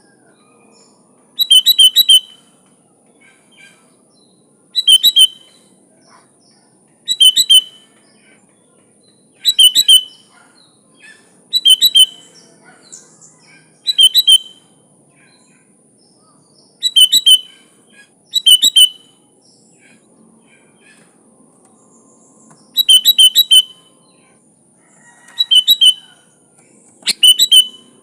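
Sooty-headed bulbul singing short, loud phrases, one roughly every two seconds.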